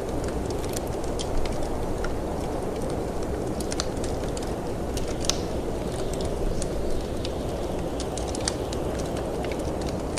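Wood fire crackling in a fireplace, with irregular sharp pops and snaps, over a steady low rush of storm wind.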